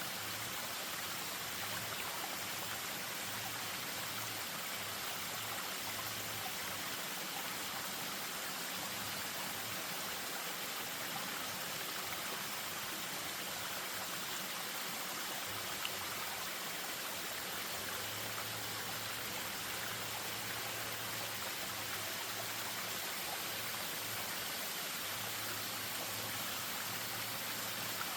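Spring-fed stream running over a small waterfall: a steady, even rush of falling water.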